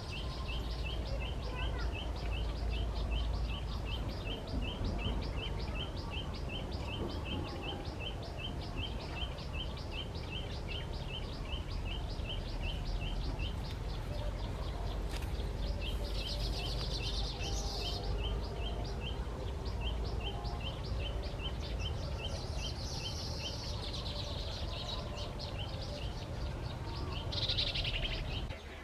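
Pipit calling in a long, evenly spaced series of short chirps, about three a second, with two spells of denser, higher chirping partway through. A steady low rumble runs underneath.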